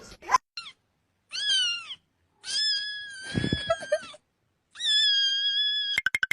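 A cat meowing four times: a short meow, a falling one, then two long drawn-out, high meows. Near the end a synthesizer beat with rapid, even pulses cuts in.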